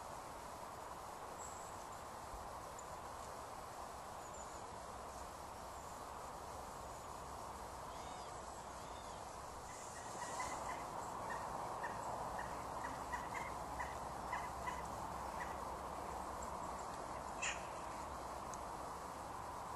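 Faint steady outdoor background hiss. About halfway through, a bird calls in a quick run of short repeated notes for several seconds, and a single sharp click comes near the end.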